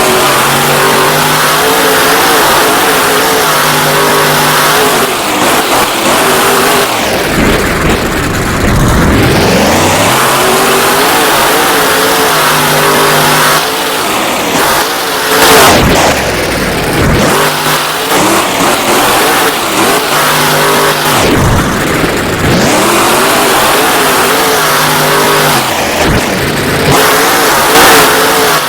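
Monster truck engine revving hard and dropping off again and again through a freestyle run, its pitch sweeping up and down. There are two sudden loud peaks, about halfway and near the end.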